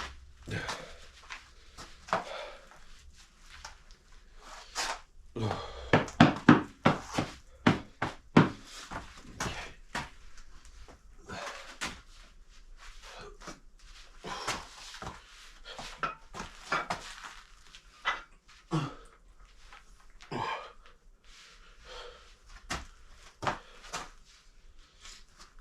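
Scattered knocks, thunks and clatters of hard objects being handled, with a quick, loud run of knocks about six to eight seconds in, and a person's breathing in between.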